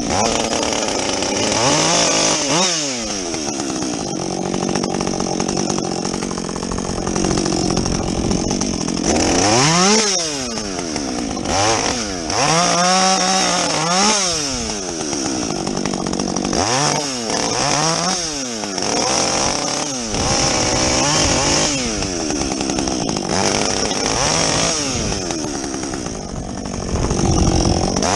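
Husqvarna 562XP two-stroke chainsaw with a modified muffler bucking a felled tree. It runs steadily at high revs for the first several seconds, then is revved up and let back down again and again through the rest.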